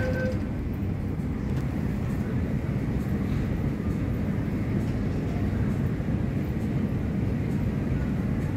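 MTR SP1900 electric train pulling away from a station platform: a steady low rumble of motors and wheels. The last of the door-closing warning tone cuts off just after the start.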